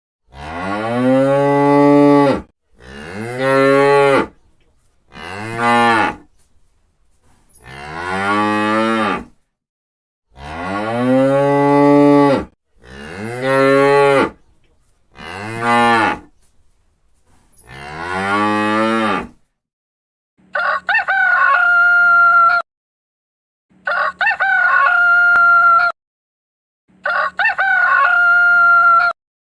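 Cattle mooing: seven long calls one after another, each rising then falling in pitch. From about twenty seconds in, a rooster crows three times.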